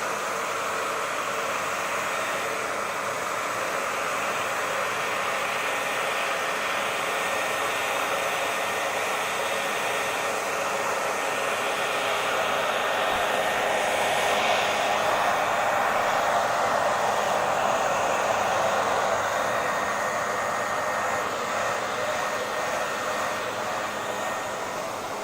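Hair dryer running steadily: a rush of blown air with a faint steady motor whine on top. It grows a little louder about halfway through and eases off again near the end.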